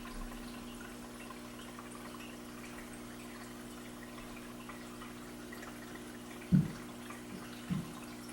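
Aquarium filter water trickling and dripping over a steady low hum. Two dull low thumps come about six and a half and seven and a half seconds in, the first the loudest.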